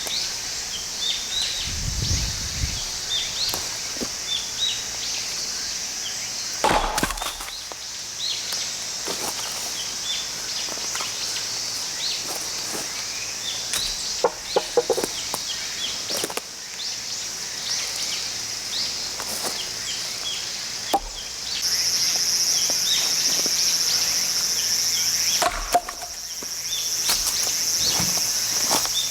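A steady high shrill of insects that grows louder about two-thirds of the way through, with many short high chirps over it. A handful of sharp wooden knocks, several seconds apart, break in.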